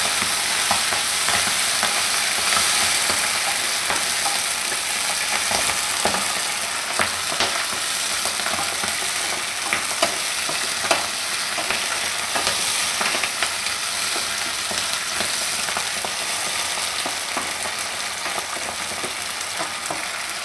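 Fresh fenugreek leaves sizzling in hot oil in a nonstick wok while a spatula stirs and turns them, with scattered scrapes and taps of the spatula against the pan. The sizzle eases slightly toward the end.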